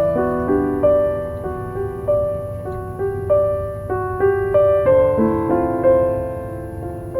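Slow, gentle piano music: single melody notes struck about once or twice a second, each ringing and fading, over a steady low background hiss.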